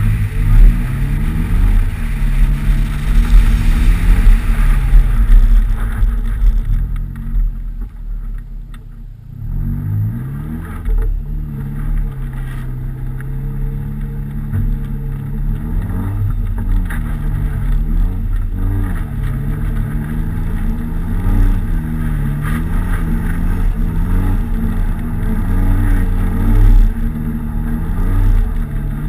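Nissan 200SX engine running under varying throttle on snow, its revs rising and falling over and over. A rushing noise comes with it over the first few seconds. The engine sinks low for a moment about eight or nine seconds in, then picks back up and keeps swinging up and down about every two seconds.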